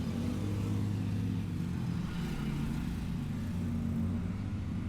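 Motorcycle engine running with a steady, unchanging low note.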